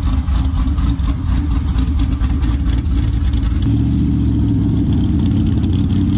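Twin-supercharged LS7 V8 engine of a 1,200 hp motorcycle being revved, running loud and uneven, then settling into a steady idle about two thirds of the way in.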